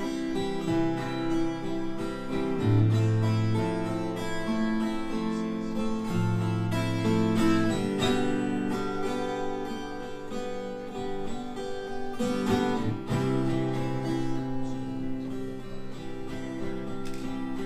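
Acoustic guitar playing the slow instrumental introduction of a song, with ringing chords that change every few seconds.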